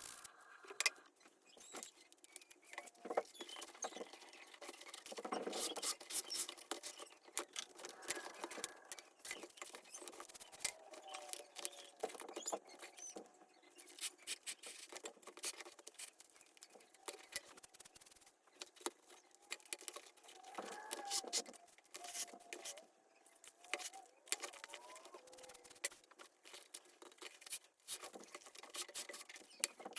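Hands working a small leather baseball glove, sped up in time-lapse. The sound is a dense run of quick scratching, rubbing and clicking, with a few short squeaks that glide up and down in pitch.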